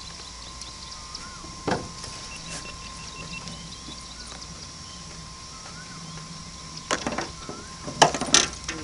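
A small motor whining steadily, with a sharp knock about two seconds in and a loud cluster of sharp knocks and clatter near the end.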